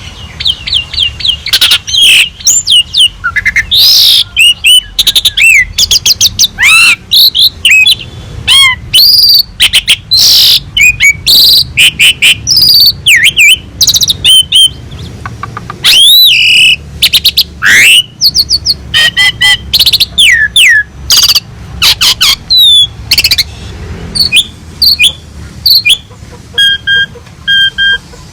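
Asian pied starling (jalak suren) singing a loud, varied song of whistled glides rising and falling and sharp chattering notes, with short repeated notes near the end.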